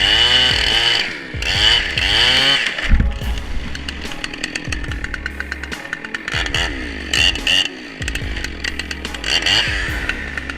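Chainsaw revving up and down several times, with steadier running between the revs.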